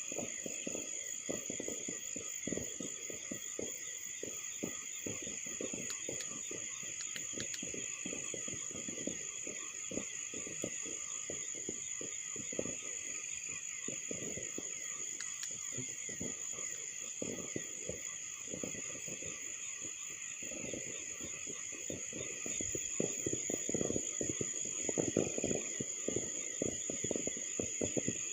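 Steady night chorus of crickets and other insects, with dense irregular low crackling and popping beneath it that grows louder near the end.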